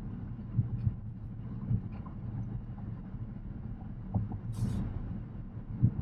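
Tyre and road rumble inside the cabin of a Tesla Model X Plaid electric SUV on the move, with scattered light thumps from the road surface and a short hiss about four and a half seconds in.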